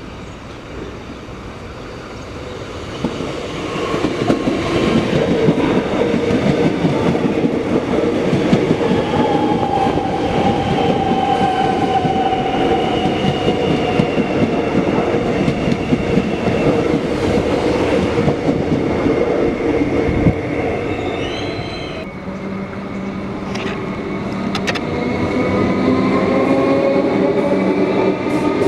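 Electric Metro suburban train running past on the rails: wheel and rail noise with clickety-clack and whines that slide slowly in pitch. It builds over the first few seconds, drops suddenly about three-quarters through, then builds again.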